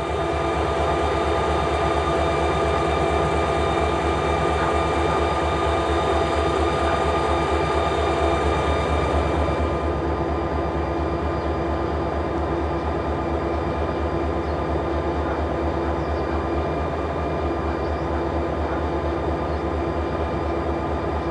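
Freight train running by: a steady low rumble with several steady whining tones above it. A higher hiss drops away about ten seconds in.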